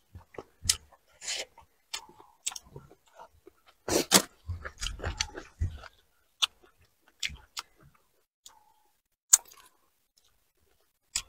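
Close-up mouth sounds of eating fried shrimp and fish: wet chewing, lip smacks and crunchy bites. They are busiest around four to six seconds in, then thin out to single smacks.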